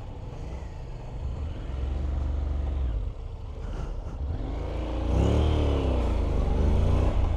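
Motorcycle engine under way over a low wind rumble, its revs climbing and then dropping back about five seconds in as it accelerates.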